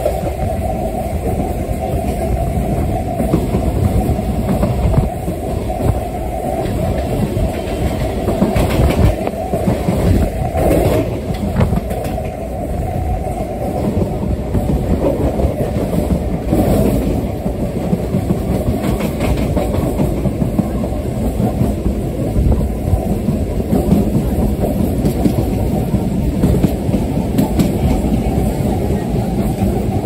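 Passenger train coach running along the track at speed: a steady rumble of steel wheels on rail, heard from the coach's open side, with occasional sharp clacks as the wheels cross rail joints and points.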